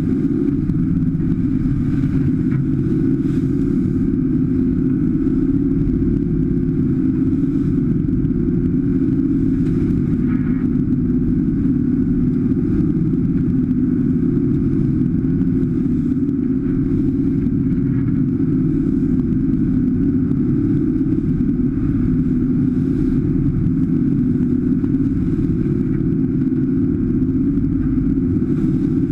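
Boat engine running steadily at constant speed, a loud even low drone with no change in revs.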